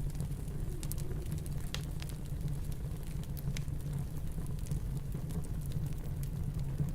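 Wood fire crackling, with scattered sharp pops and ticks, over a steady low rumble of snowstorm wind.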